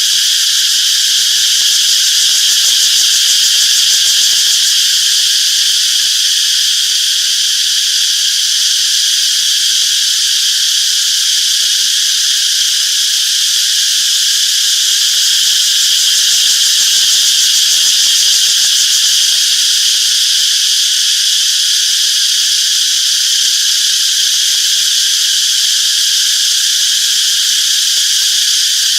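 Cicadas buzzing in a continuous, steady high-pitched drone that doesn't rise or fall.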